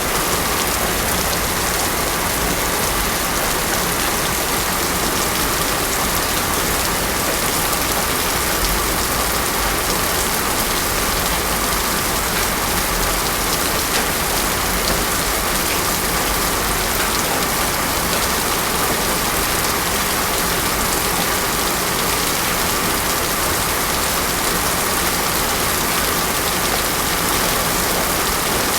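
Heavy rain pouring steadily onto a road, an even, unbroken hiss of rain, with a faint steady tone underneath.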